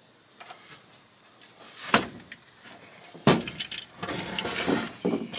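An oscilloscope's case being pried and pulled open: a few light clicks, one sharp knock about two seconds in, then a run of clattering and rattling as the cover comes loose.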